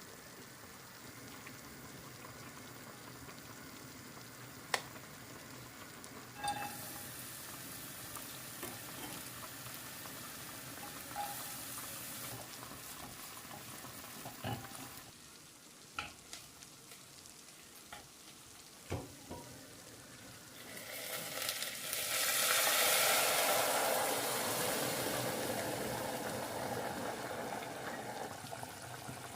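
Food frying in a pan: a steady sizzle with scattered clicks and knocks of a utensil. About two-thirds of the way through, the sizzle swells much louder and stays loud.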